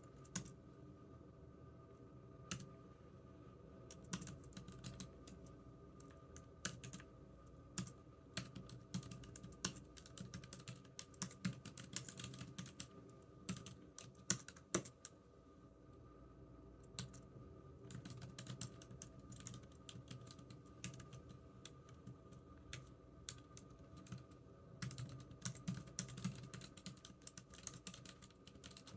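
Typing on a computer keyboard: runs of irregular key clicks with short pauses between them, over a faint steady hum.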